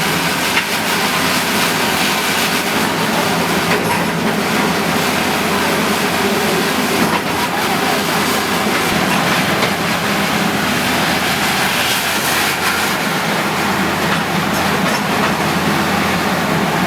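Bulldozer running with a steady mechanical rumble and clatter.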